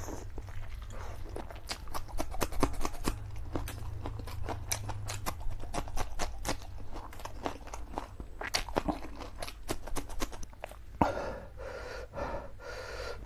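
Close-miked eating of spicy black bean noodles and fried egg: a dense run of wet chewing, smacking and slurping clicks. Near the end the clicks give way to a brief voiced sound from the eater.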